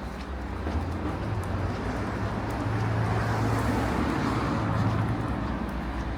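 A car driving past, its engine and tyre noise growing louder over the first few seconds, loudest about four seconds in, then easing off.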